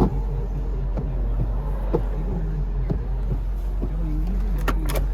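Steady low drone of a Mercedes-Benz 560SL's 5.6-litre V8 and road noise heard from inside the cabin while driving, with a radio voice talking faintly over it and a few sharp clicks.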